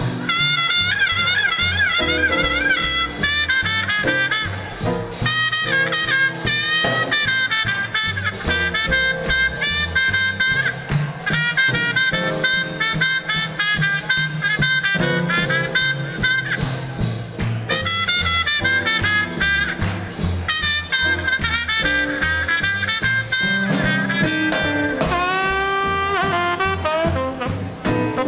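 Small swing combo playing live: a horn carries the melody with vibrato over a walking bass, piano and drums, with several upward glides from the horns near the end.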